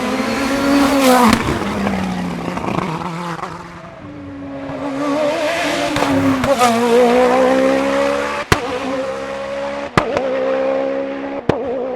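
Race car engine at high revs on a hillclimb course: loud about a second in, easing off, then accelerating again and holding high revs. Three sharp cracks come in the last few seconds, about a second and a half apart.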